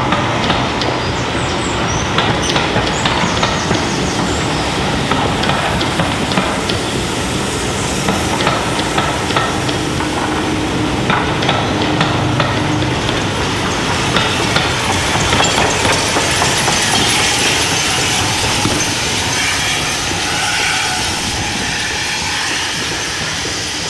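Heritage train running along the line, its wheels clicking and knocking over the rails in a steady stream of clatter.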